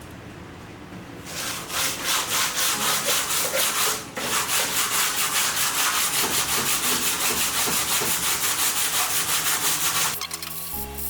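Hand sanding of cured carbon fibre with sandpaper on a backing block: quick, even back-and-forth strokes, about five a second, flattening the seam where two layers of carbon cloth overlap. The strokes start about a second in, break off briefly near four seconds, and stop about ten seconds in.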